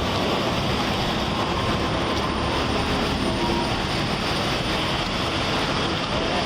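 Steady rushing noise of freeway traffic passing on wet pavement.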